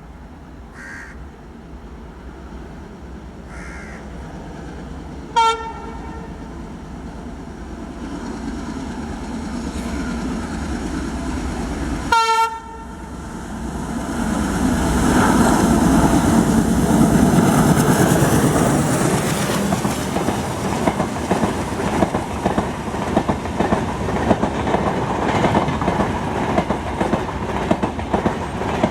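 Locomotive-hauled express train approaching at speed, sounding two short horn blasts about seven seconds apart. The locomotive passes loudly about two-thirds of the way in, followed by the steady clickety-clack of the coaches' wheels over rail joints.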